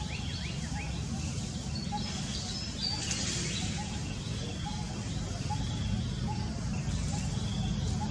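Birds chirping in the background: short repeated chirps about twice a second and a few quick falling notes in the first second, over a steady low rumble.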